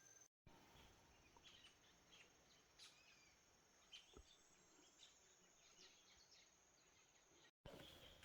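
Faint forest ambience: a steady high-pitched insect drone with scattered short bird chirps, the sound cutting out completely twice for a moment, near the start and near the end.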